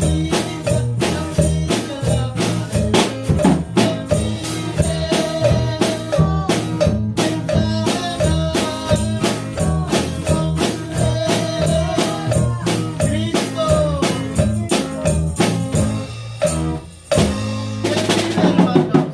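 Live church praise band playing an upbeat song without singing: a drum kit keeps a fast, steady beat of snare and bass drum over a bass line and a melody instrument. Near the end the band drops out for a moment and a low bass note is held before the drums come back in.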